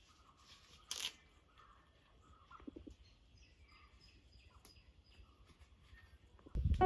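Faint birds chirping, with a short burst of noise about a second in. Piano music starts near the end.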